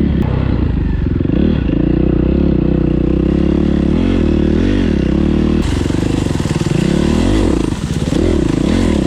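Yamaha WR450 dirt bike's single-cylinder four-stroke engine under riding load in sand, the throttle opening and closing so the engine note rises and falls over and over.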